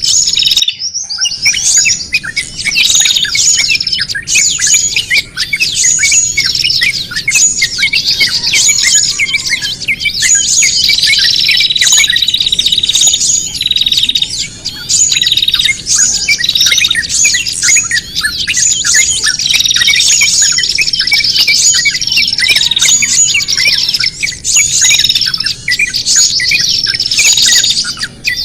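Lure recording of many small songbirds calling at once: dense, overlapping high chirps, trills and squawks that run without a break. It is a noisy, agitated chorus meant to sound like a bird in distress and draw other small birds in.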